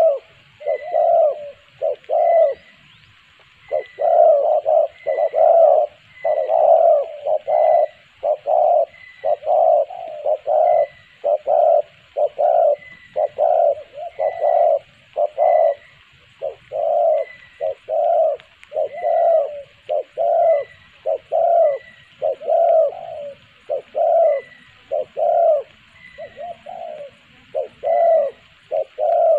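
Spotted dove cooing over and over, a steady run of low coos about one a second with only brief pauses.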